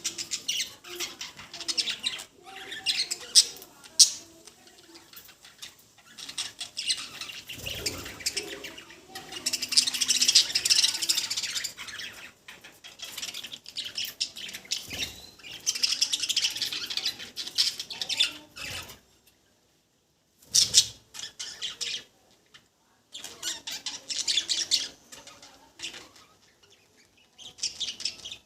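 Pet budgerigars chattering and chirping in bouts, with scratchy high calls and clicks, broken by a couple of short near-silent pauses past the middle.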